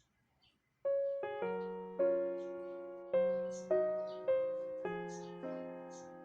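Background piano music: soft melodic piano notes begin about a second in, each struck and left to fade.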